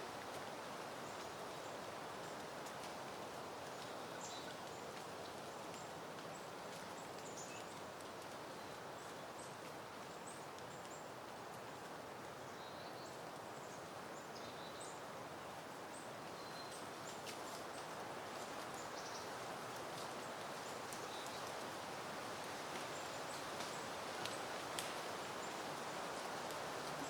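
Soft wind rustling through peony foliage and blooms, a steady hiss that swells slightly near the end. Faint short high bird chirps are scattered throughout.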